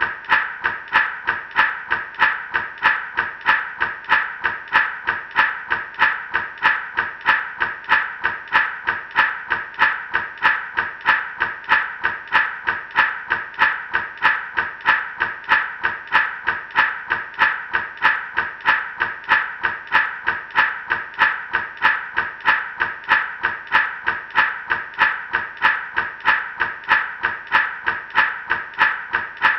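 Gourd rattle shaken in a steady, even rhythm, each shake a dry rattle of seeds against the gourd shell.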